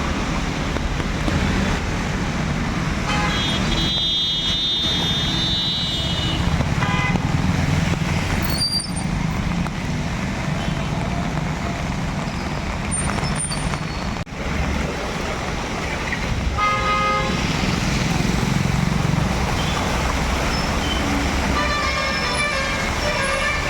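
Street traffic in heavy rain: vehicle horns honk several times, the longest about three seconds near the start, over a steady wash of rain and traffic noise.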